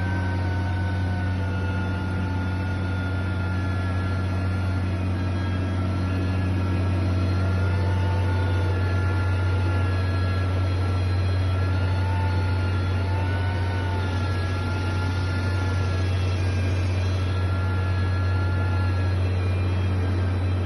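Heavy construction machinery's engine running steadily: a constant low drone with faint higher tones that slowly waver in pitch.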